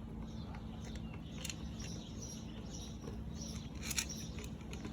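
Outdoor background: faint, short bird chirps over a steady low hum, with one sharp click about four seconds in.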